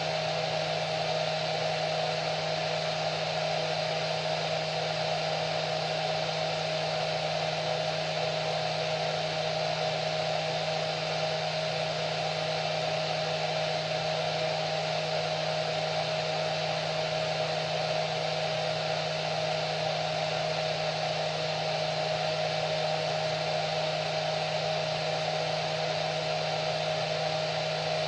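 Hair dryer running steadily: an even rush of airflow with a constant low hum and a steady mid-pitched whine from the motor and fan.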